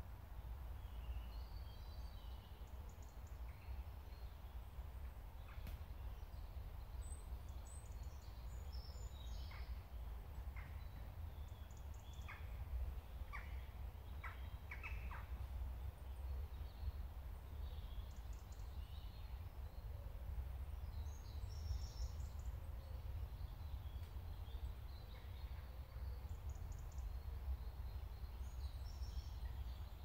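Woodland birds chirping and calling, with a run of about seven short, sharp calls around the middle, over a steady low rumble.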